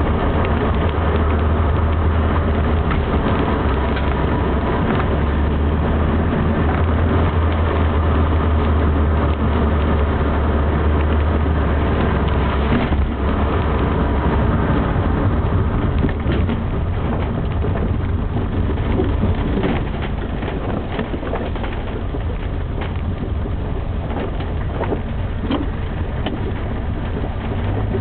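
Classic Mini's engine heard from inside the cabin, running steadily under way with tyre and road noise; the drone drops a little about two-thirds of the way in.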